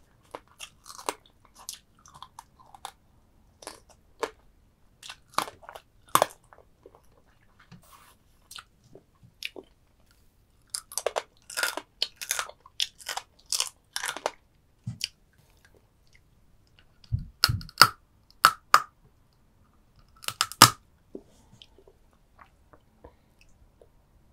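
Close-miked chewing and crunching of soy-sauce-marinated stone crab, with irregular sharp crackles. A dense run of crunches comes about halfway through, and a few loud, heavy cracks come later.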